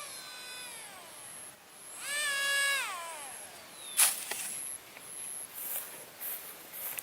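A cat meowing twice, each call drawn out and dropping in pitch at the end; the second call is the louder one. A sharp click comes about four seconds in.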